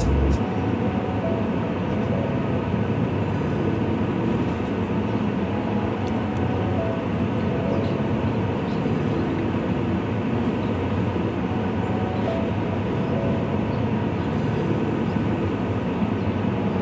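Freight train running on the tracks, a steady rumbling noise that holds at an even level throughout.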